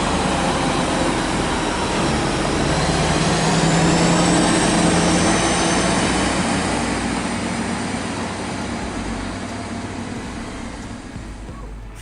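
Heavy vehicle engine running with a dense mechanical rumble, loudest a few seconds in and then slowly fading away.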